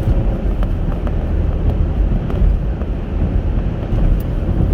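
Steady low rumble of road and engine noise from a Chevrolet Captiva driving along.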